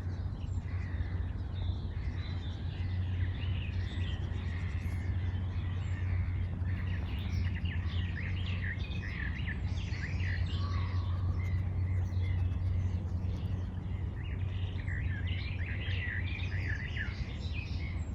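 Several songbirds chirping and trilling, many overlapping calls, over a steady low rumble.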